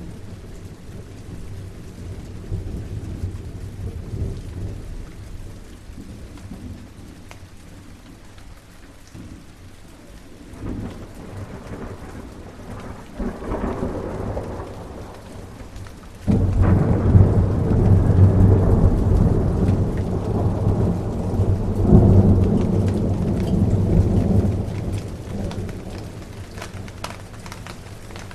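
Steady rain with thunder: a low rumble swells about halfway through, then a loud thunderclap breaks suddenly and rolls on for several seconds before fading back under the rain.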